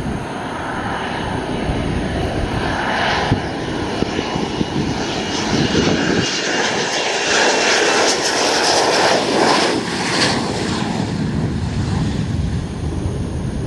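Jet aircraft passing overhead: a wide engine roar that builds to its loudest about nine seconds in and then eases off, with a faint whine slowly falling in pitch.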